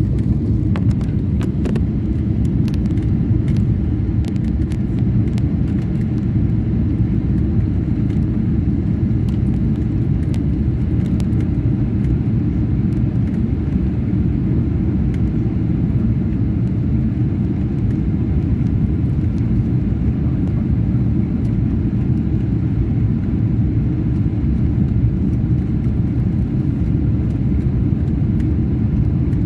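Steady low rumble of cabin noise inside a Boeing 777-300 airliner during the landing phase, with faint ticks and rattles in the first dozen seconds.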